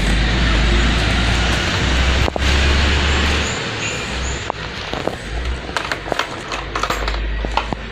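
Small motorcycle engine running after being started to test a newly fitted fuel cock, with a steady low rumble for the first few seconds, followed by several sharp clicks and knocks.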